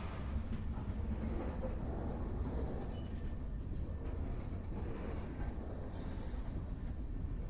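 A train rolling along the tracks: a steady, even low rumble with rough rail and wheel noise above it.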